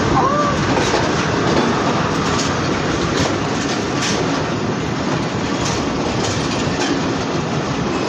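Passenger train running along the track: a steady rumble of wheels on rail with irregular clicks as the wheels cross rail joints.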